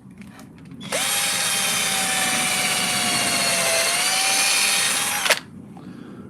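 Power drill running a combined drill-and-countersink bit into treated timber: a steady whine for about four seconds that dips slightly in pitch partway through, then stops abruptly.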